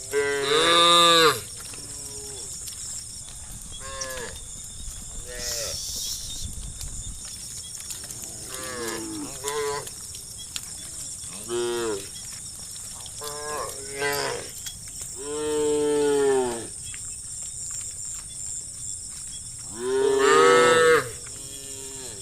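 Cattle in a herd mooing: a string of separate calls from different cows, some short and some drawn out, the loudest about a second in, around sixteen seconds and near the end.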